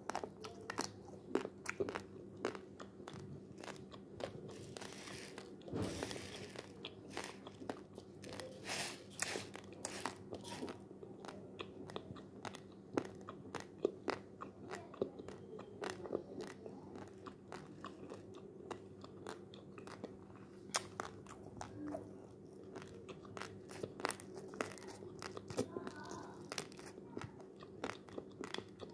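A person biting and chewing dry, uncooked basmati rice grains: many sharp, irregular crunches, over a steady low hum.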